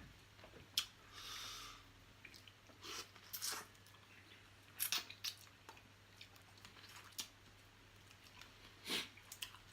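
Faint, scattered crunches and clicks of a person biting and chewing through blue crab shell, with a louder crack near the end.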